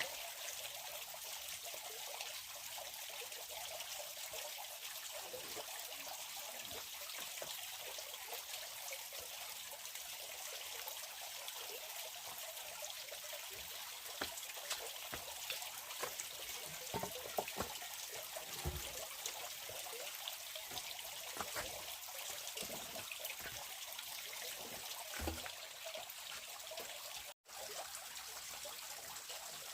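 Steady trickling water, with scattered small clicks and taps.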